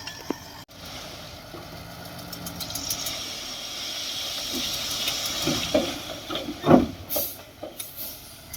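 Heavy construction machinery working: a hiss swells for a few seconds and fades, then several knocks and one loud thump near the end.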